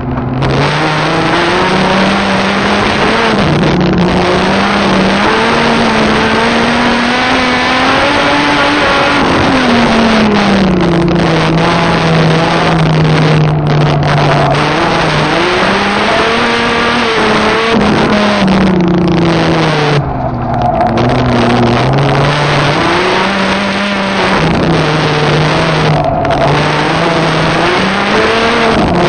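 Volkswagen Golf VR6's six-cylinder engine heard from inside the cabin during a hard run around a track, its pitch rising and falling repeatedly through gear changes and corners. About twenty seconds in there is a short lift off the throttle.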